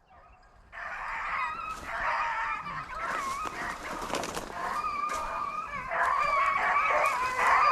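A pack of rabbit hounds baying in chorus, several dogs at once in long, wavering overlapping notes, as the pack works the trail of a shot rabbit. The baying starts about a second in and grows a little louder near the end.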